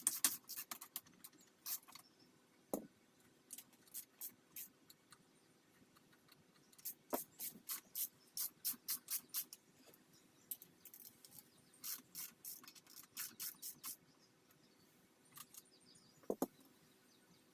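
Hand tools working on metal parts: runs of sharp small clicks, about four or five a second, broken by pauses, with an occasional duller knock.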